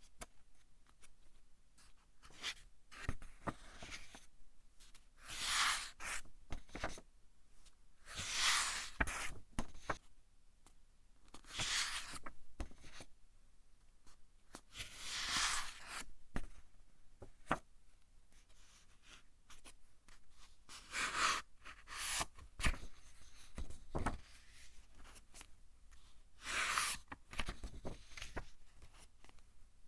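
Pages of a thick-papered book being turned one at a time: a papery swish every few seconds, with small crackles and taps of the paper in between.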